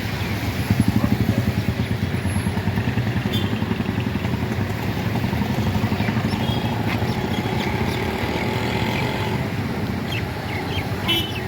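A motor vehicle engine running steadily with a low, pulsing throb, over a steady background of outdoor noise.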